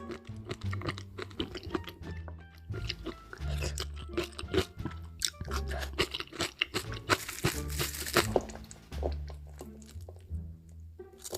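Close-miked eating: crackly crunching bites and chewing, over background music with a repeating bass line.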